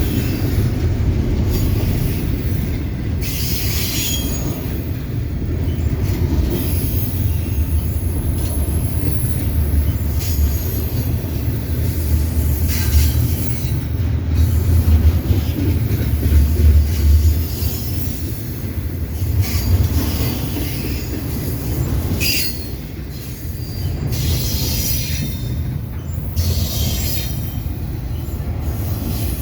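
CPKC train rolling past: a steady low rumble of steel wheels on rail, broken by several brief high-pitched wheel squeals.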